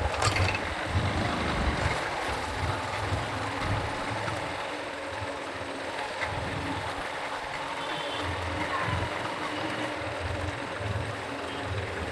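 Motorcycle engine running on the move, with wind and road noise. The low engine rumble drops back in the middle and builds again near the end.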